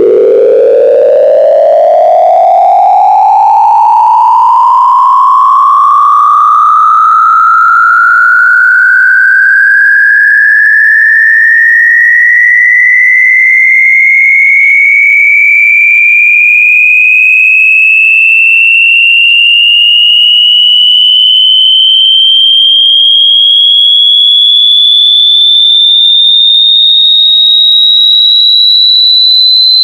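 A loud electronic tone gliding slowly and steadily upward in pitch, from a low hum to a shrill high whine, with faint overtones above it.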